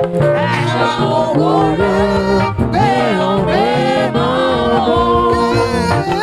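Gospel praise singing with instrumental backing: sung voices gliding between notes over a steady bass line.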